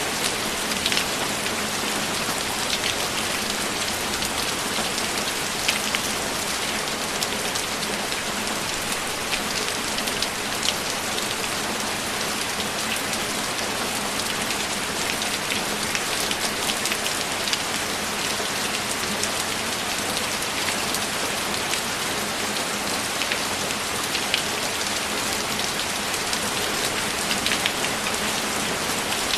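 Steady rain falling: a dense, even hiss with scattered louder individual drops.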